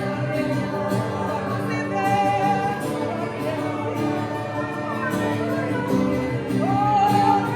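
Live praise-and-worship music: a singer's voice holding and bending long melodic notes over steady sustained chords.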